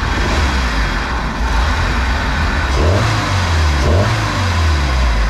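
Bayliner boat's engine running at low speed with a steady low rumble, revs rising briefly twice near the middle.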